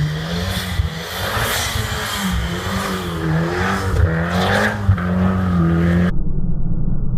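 Mitsubishi Lancer Evolution X GSR's turbocharged 2.0-litre four-cylinder revving up and down as the car drifts on snow, with bursts of tyre noise from wheelspin. About six seconds in, the sound turns dull and muffled.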